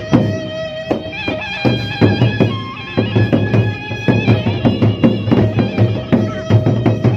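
Gendang beleq ensemble playing: large Sasak drums and percussion beaten in a fast, dense rhythm, with a suling (bamboo flute) carrying a held melody over them.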